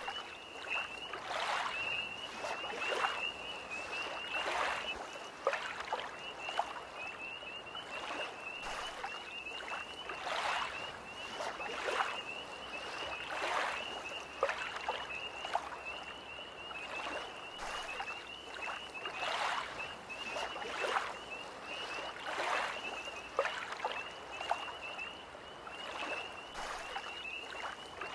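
Small lake waves lapping in irregular splashes every second or so, under a tree frog's steady, high, rapid trill.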